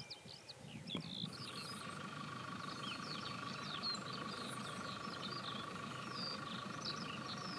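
Small birds chirping and calling repeatedly over a low steady rumble, with a steady droning tone joining about a second in.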